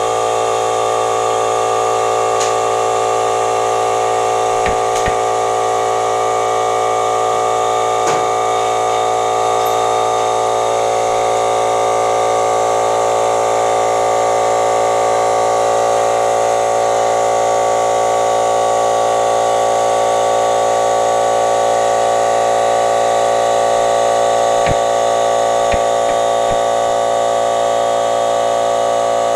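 Electric air compressor running steadily as its tank fills: a constant mechanical drone with a few faint knocks.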